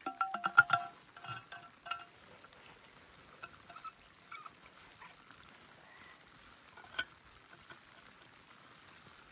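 A quick clatter of light clinks and knocks with a short ringing tone in the first two seconds, then a few faint taps and one sharp click about seven seconds in.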